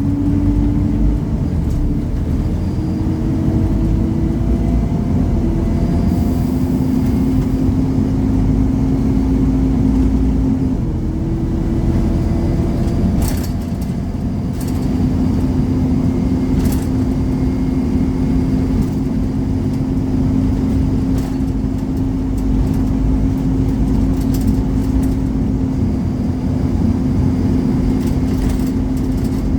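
Scania Omnicity single-deck bus heard from inside the cabin, its engine running under heavy low road rumble. The engine note rises and drops in pitch several times as the bus accelerates and changes gear. A few brief knocks or rattles come about halfway through.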